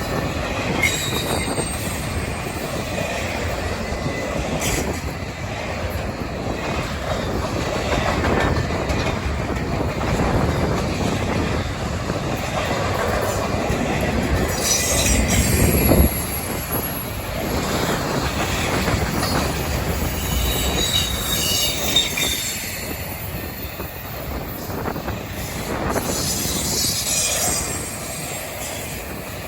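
Freight train rolling past, its cars' wheels running on the rails with clacking and occasional high wheel squeal.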